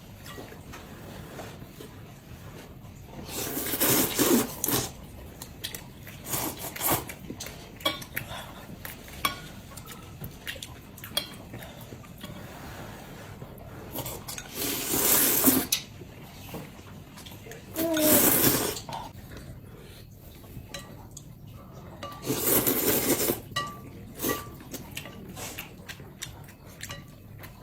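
Noodles being eaten at a table: four loud slurps about a second long, with chopsticks and cutlery clicking against bowls and dishes in between.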